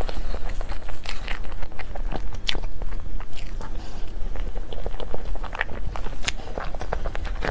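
Close-miked eating of cake and dessert: bites and chewing, with irregular wet mouth clicks and a few sharper crunches, over a steady low hum.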